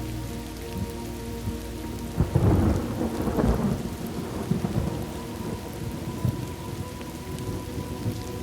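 Steady rain with a roll of thunder that swells about two seconds in, is loudest for a second or two, then rumbles off under the rain.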